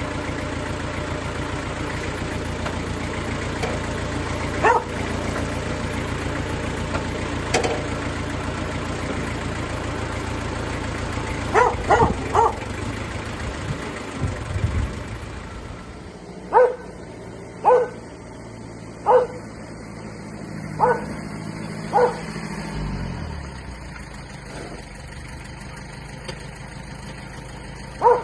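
Mitsubishi MT2201 compact tractor engine running steadily, quieter from a bit past halfway, with its note falling away about two-thirds through. A dog barks repeatedly over it, in single barks and a quick run of three, about a dozen barks in all, louder than the engine.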